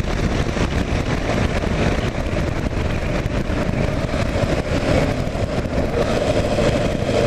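Steady wind rush on the microphone over the running single-cylinder engine of a 2009 Kawasaki KLR 650 motorcycle under way.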